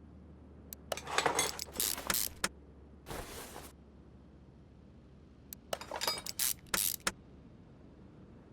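Small metal parts and tools clinking and rattling in two spells, with a short hiss between them.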